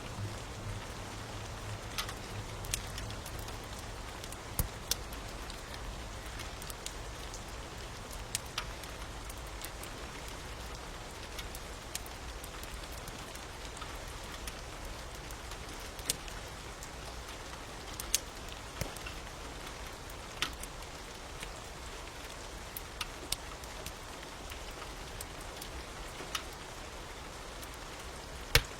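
Steady rain hiss with a crackling fire: sharp, irregular pops standing out every couple of seconds over the even wash of rain.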